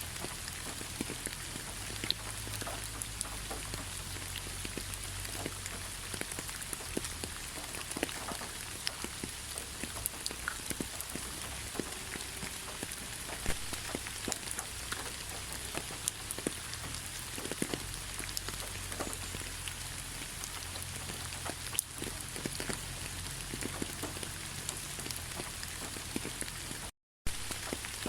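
Steady rain falling on a surface, with many individual drops tapping sharply through the even hiss. The sound cuts out to silence for a split second near the end.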